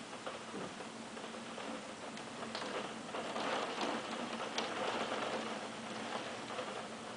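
Hailstones of 1–2 cm, with rain, pattering and ticking on hard surfaces in a dense run of small impacts. It swells about three seconds in and then eases again.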